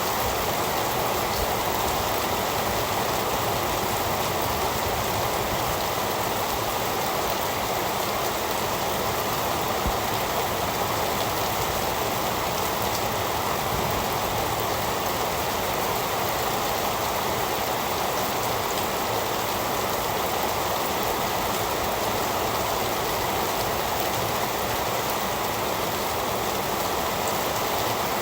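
Heavy rain falling in a steady, unbroken hiss, even and unchanging.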